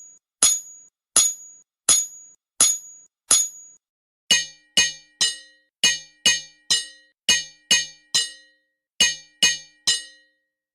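Hammer striking metal in a steady rhythm, about one and a half ringing clangs a second with a high ring. About four seconds in, the strikes change to a lower, fuller ring and come in quick groups of three.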